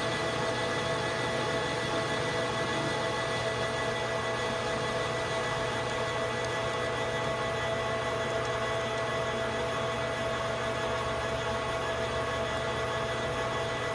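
Metal lathe running steadily, its motor and drive giving a constant hum with several steady tones, while a thread protector is machined to length.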